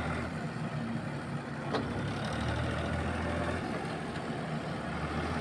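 Diesel engine idling steadily with a low, even hum, and a single short click about two seconds in.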